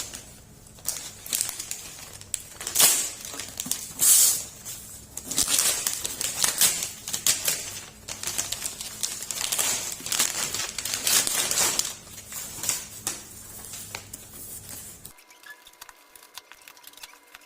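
Gift wrapping paper being torn open and crumpled, a run of crinkling rips and rustles that dies down near the end.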